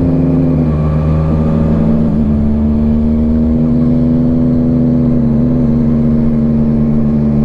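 Motorcycle engine running steadily while riding. Its pitch eases slightly about half a second in and picks up again around two seconds in.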